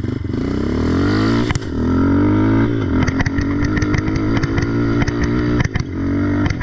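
Yamaha Raptor ATV's single-cylinder engine through an aftermarket exhaust, accelerating hard. Its pitch climbs, drops suddenly about a second and a half in as it shifts, and climbs again. It then runs unevenly on and off the throttle, with many sharp knocks.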